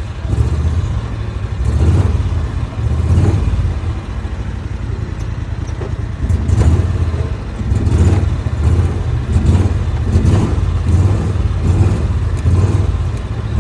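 Engine of a small vehicle running as it is driven slowly and pulled in to park, its low rumble rising and falling every second or two.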